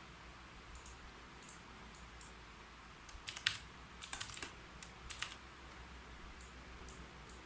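Keystrokes on a computer keyboard: a few scattered taps, then a quick flurry of typing about three seconds in, then sparse taps again.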